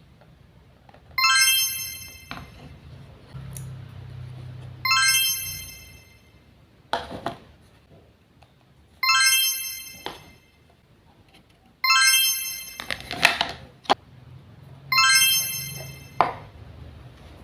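A short electronic chime tune, likely from the toy kitchen set, played five times a few seconds apart. Each chime fades over about a second, with sharp clicks and knocks between them.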